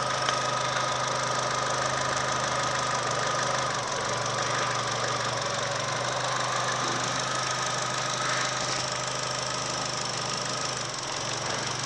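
2011 Holden Cruze's 1.4-litre turbocharged four-cylinder Ecotec petrol engine idling steadily, heard up close in the open engine bay, with a steady high whine over the idle.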